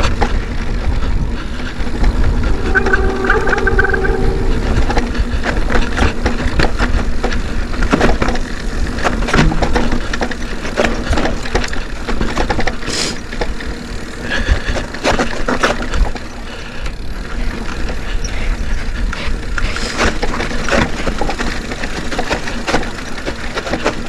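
Mountain bike riding over a rough dirt trail: a steady low rumble with frequent knocks and rattles of the bike over bumps, and a brief squeal about three seconds in.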